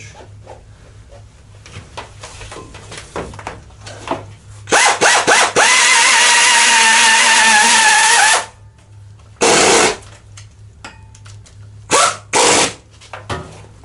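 A power tool running in bursts: a few short blips, then one continuous run of about three seconds with a steady whine, then two or three more short bursts near the end.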